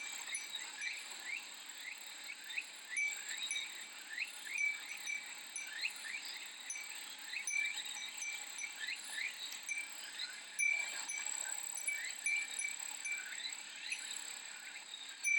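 A Japanese fūrin wind chime tinkling again and again over the steady high buzz of cicadas, with many quick chirps throughout.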